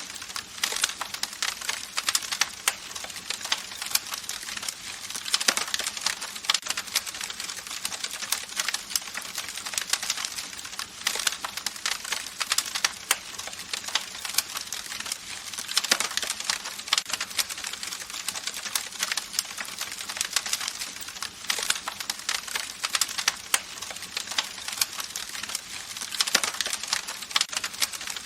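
Campfire crackling: a dense, irregular run of pops and snaps that never stops, with hardly any low rumble beneath it.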